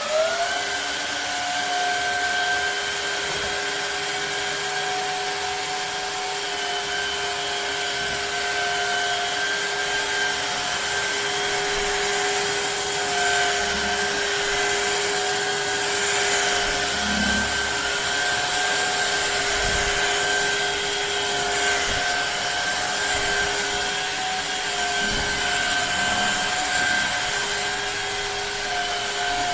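Shark HydroVac MessMaster cordless wet-dry vacuum mop running steadily, its motor giving a constant whine over a rushing hiss of suction, with a few low knocks.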